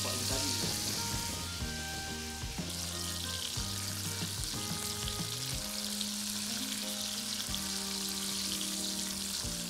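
Mantis shrimp frying in shallow hot oil in a pan, with a steady sizzling hiss.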